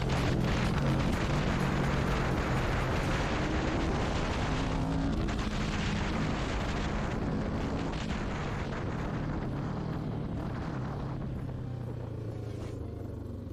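Motorcycle engine running at speed under loud rushing noise, its pitch climbing about five seconds in, then the whole sound gradually fading toward the end.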